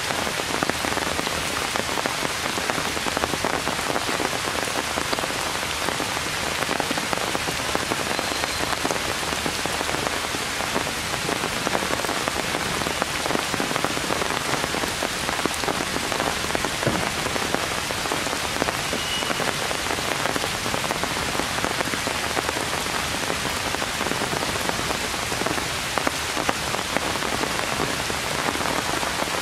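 Heavy rain falling on the leaves of a tree canopy: a steady, dense patter of countless drops.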